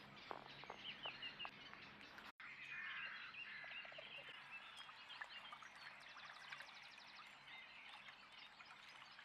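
Faint chorus of small songbirds chirping and warbling, with a rapid high trill a little past the middle. The sound cuts out for an instant about a quarter of the way in.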